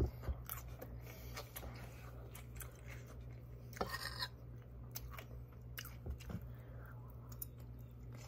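A person chewing mouthfuls of chicken chimichanga and lettuce close to the microphone, with scattered soft mouth clicks and a louder click right at the start.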